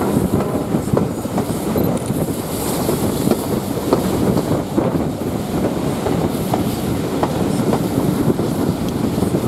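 Railway carriage running along the track, its wheels clacking and clicking over the rail joints at a steady running speed.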